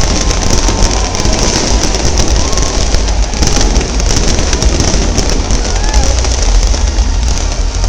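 Fireworks display going off continuously: a dense stream of rapid bangs and crackles over a steady low rumble of booms.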